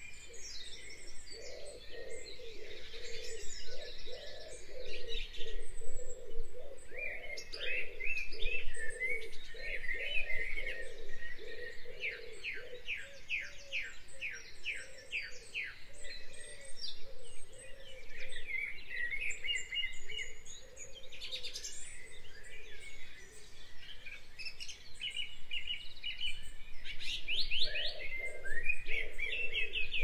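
Songbirds chirping and trilling in an overlapping chorus, with a run of about a dozen evenly spaced notes midway and a lower pulsing sound underneath.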